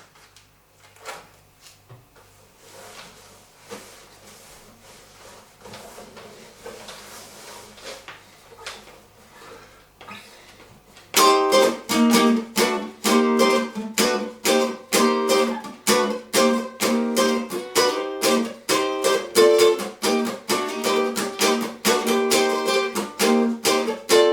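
Faint, irregular soft sounds for about the first ten seconds, then a strummed acoustic string instrument comes in loudly with a steady rhythm of chord strokes, several a second.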